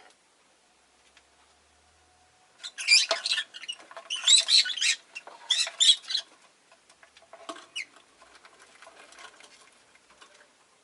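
Rosy-faced lovebird chirping and chattering in three loud, rapid bursts of high squeaky calls, followed about two seconds later by a single falling call and softer twittering.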